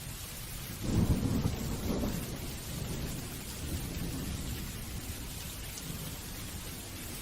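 Steady rain falling, with a roll of thunder that breaks in about a second in, is loudest over the next second, then rumbles and fades away over several seconds.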